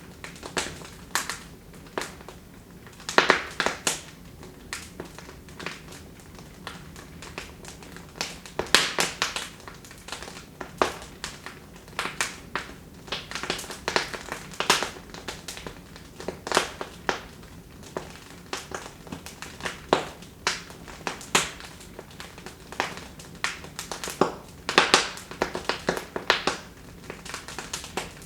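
Wood fire crackling in a fireplace: irregular sharp pops and snaps, coming in quick clusters now and then, over a soft steady hiss.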